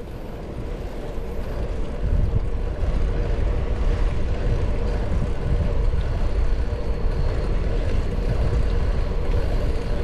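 Wind rumbling on the microphone of a camera on a moving bicycle, together with the bike's riding noise on the trail. It gets louder about two seconds in and stays steady after that.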